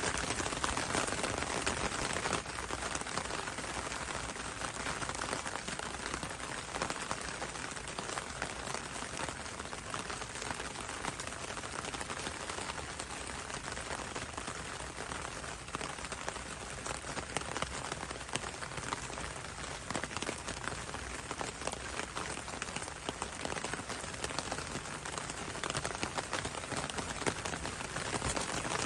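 Steady rain falling on leaves, a dense patter of drops.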